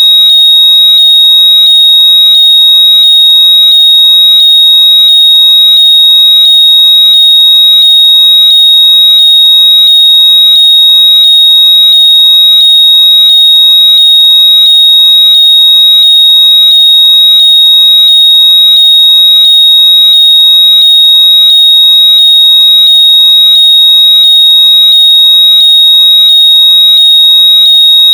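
Very loud, high-pitched electronic tone, pulsing about twice a second, with faint rising chirps under it. It is a synthetic locator noise, played so that lost earbuds or AirPods can be heard.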